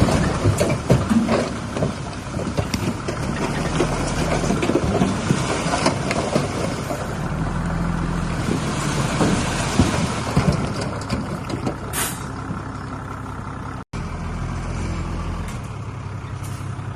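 The diesel engine of heavy earthmoving machinery runs steadily, with many irregular clanks and knocks. There is a brief hiss about twelve seconds in. The sound drops out for an instant about two seconds later, then carries on more evenly.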